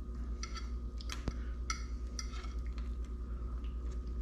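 A few light clinks and clicks of a fork against a plate, clustered in the first couple of seconds, over a steady low hum.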